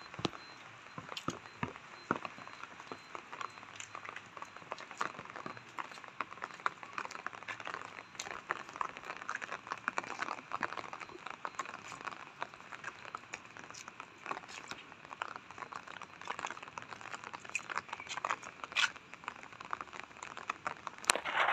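Rain falling, with dense, irregular raindrop taps close to the microphone.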